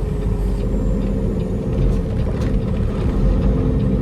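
Peterbilt semi-truck's diesel engine running steadily as the truck drives on, with a brief click about two and a half seconds in.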